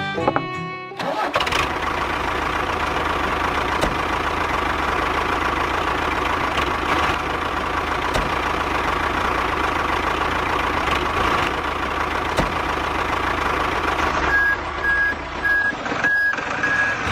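An engine running steadily with a dense mechanical noise. Near the end it is joined by a run of short, evenly spaced high beeps like a reversing alarm.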